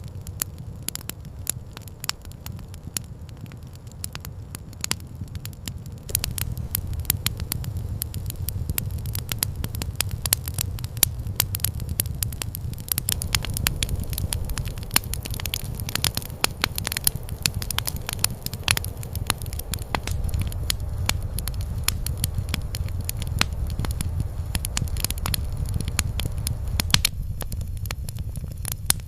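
Campfire crackling, with frequent irregular sharp pops over a low steady rumble. The crackling grows denser and louder about six seconds in.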